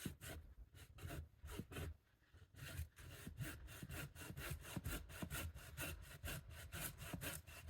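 Handsaw cutting through a fallen tree trunk in quick back-and-forth strokes, uneven at first and then settling into a steady rhythm of about three strokes a second.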